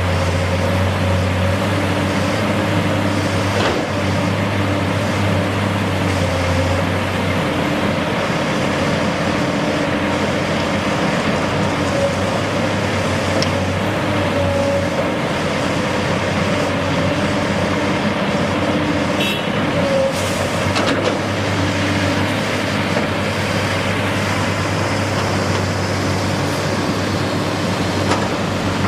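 Steady engine noise of a heavy vehicle or machine running, with a constant low hum and a steady mid-pitched tone, and a few faint clicks.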